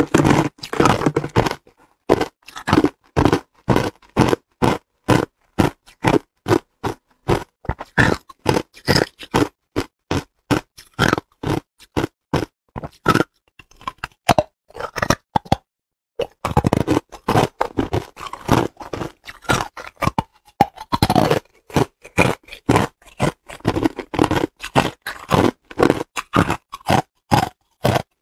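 Hard clear ice being bitten and chewed close to the microphone: a long run of sharp crunches, about two a second, with a short pause about halfway through.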